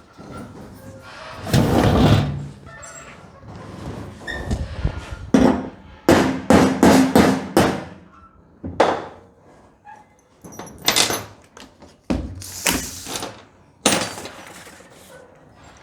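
A series of hard knocks and clunks, with a quick run of about five strokes around six seconds in and single heavier thuds before and after.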